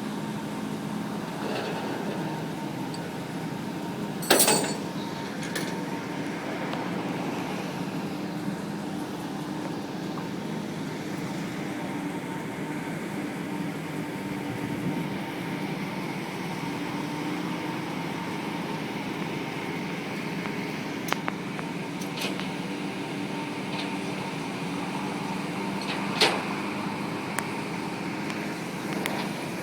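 A tow truck running steadily with a low mechanical hum, while the pickup with the locked-up rear end is pulled up. A sharp clank about four seconds in and another near the end.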